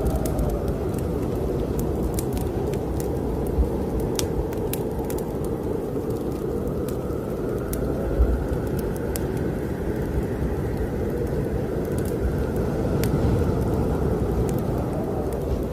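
Heavy snowstorm wind blowing in a steady rumble with a slowly wavering howl, over a wood fire crackling in a fireplace with scattered sharp pops. Two pops stand out, about three and a half and eight seconds in.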